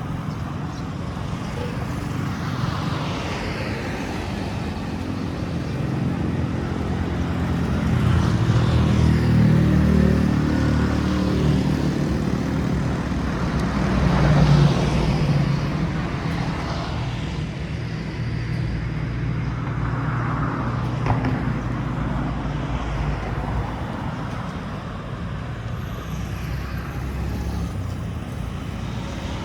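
Road traffic: the engines of motor vehicles passing one after another, each rising and fading as it goes by, loudest about ten and fifteen seconds in.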